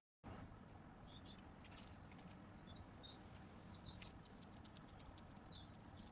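Faint pattering and ticking of small animals moving and foraging, with a few short high squeaks or chirps scattered through, over a low hiss; the sound drops out completely for a moment at the start.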